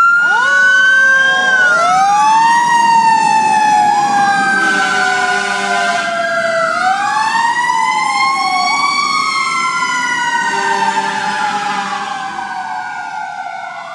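Fire engine sirens wailing: several slow rising and falling tones at different pitches overlap, fading near the end.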